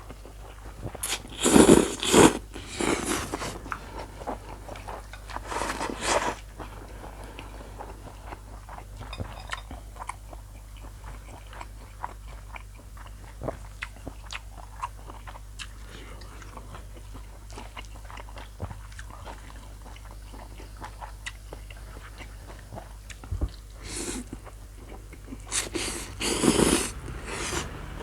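Close-miked eating of spicy mee sua noodle salad with chicken feet: steady chewing and biting with small crunchy clicks, broken by a few louder noisy bursts near the start and again near the end.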